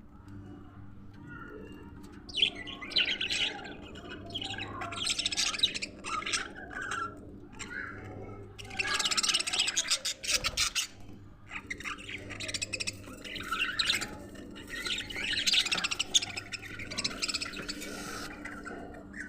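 A flock of budgerigars chirping and chattering in repeated bursts, over a steady low hum.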